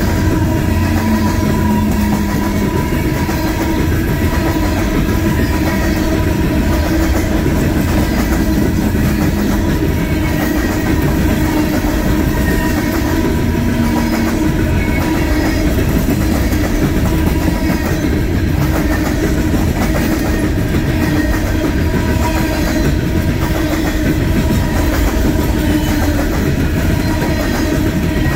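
Norfolk Southern coal train's hopper cars rolling past at close range: a steady rumble and clickety-clack of steel wheels on the rail joints, with a thin steady whine over it.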